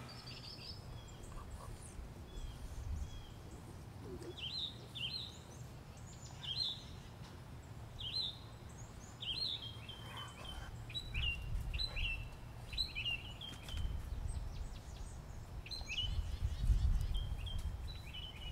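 Songbirds chirping: short high notes repeated through most of the stretch, sometimes in quick runs, over low rumbling noise that swells now and then.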